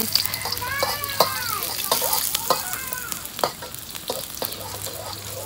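Sliced garlic and shallots sizzling in hot oil in a wok, frying toward golden, while a metal spatula stirs them and knocks and scrapes against the pan in sharp clicks.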